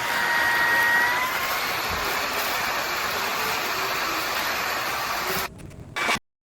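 Bissell PowerClean cordless stick vacuum motor running: a steady rush of air with a high whine that rises slightly about a second in. The sound drops away near the end, returns briefly, then cuts off.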